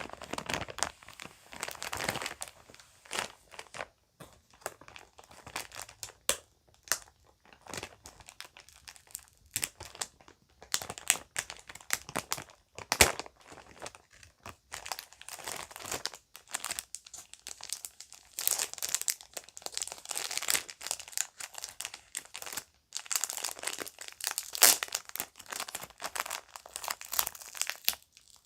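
Bags crinkling and rustling as children's jewelry is handled, in an irregular run of crackles with sharp little clicks, and a few louder snaps.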